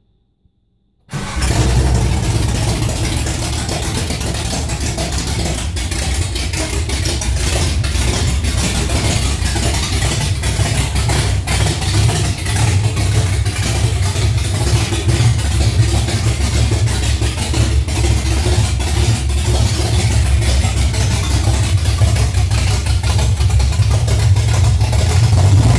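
Holden 308 V8 running straight out of the extractors with no exhaust fitted, very loud. It comes in abruptly about a second in and then runs steadily, growing slightly louder.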